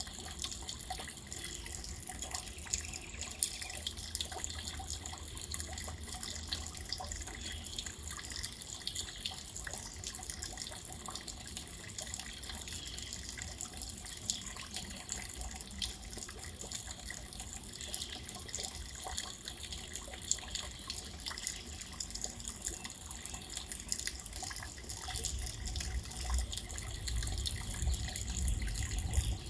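Steady rain, a dense spread of small drop ticks over an even hiss. A low rumble grows louder near the end.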